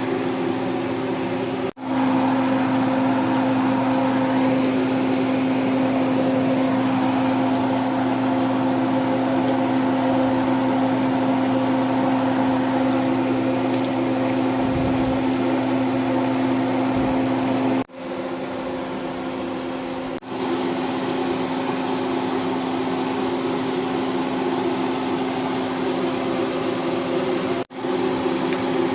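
Steady, loud electric hum of a kitchen appliance's fan or motor, with a strong low tone. It breaks off briefly a few times.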